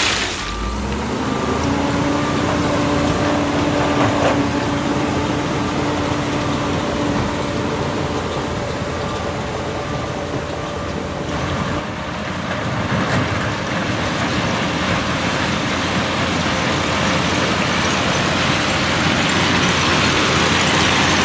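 Heavy diesel earthmoving machinery running steadily. A hiss cuts off right at the start, and the engine pitch climbs briefly in the first second. The engine and the broad rushing noise grow louder again near the end.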